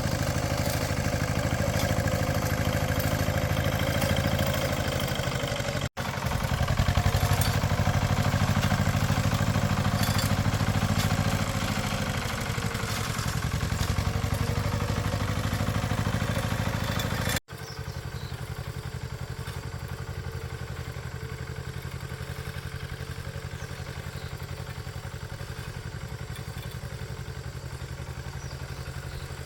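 A small engine running steadily, broken by two abrupt cuts about six and seventeen seconds in; after the second cut it is quieter.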